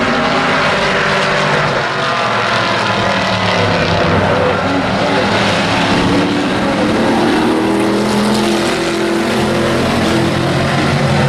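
Several hobby-class race trucks' engines running hard together on the track, their pitches rising and falling as they go around.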